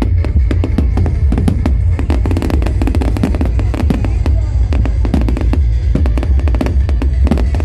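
Loud music with a heavy bass, with fireworks cracking and banging irregularly over it, several cracks a second.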